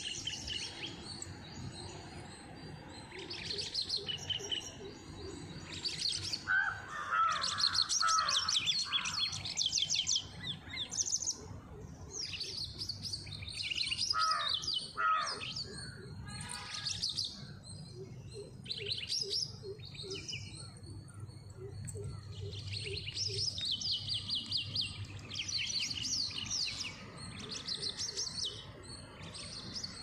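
Birds chirping and singing: rapid high trills and repeated chirps overlap throughout, with lower-pitched calls joining briefly about seven and fifteen seconds in.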